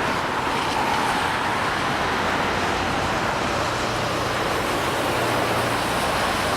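Steady jet roar from a Boeing 737-500's CFM56 turbofan engines as the airliner lands and rolls out.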